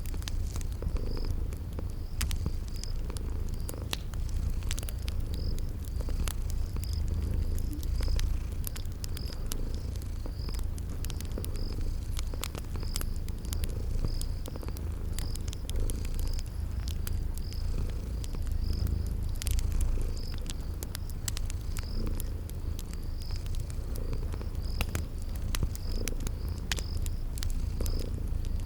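Domestic cat purring steadily in a continuous low rumble, with scattered sharp crackles of a wood fire and a cricket chirping at a steady pace of roughly once a second.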